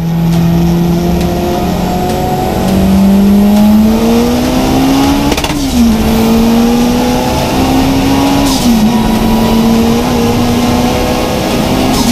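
Turbocharged 2.0-litre 16-valve four-cylinder engine of a VW Golf Mk1 accelerating hard at full load. Its note climbs steadily in pitch, then drops sharply with upshifts about five and a half seconds in, near nine seconds, and again at the very end.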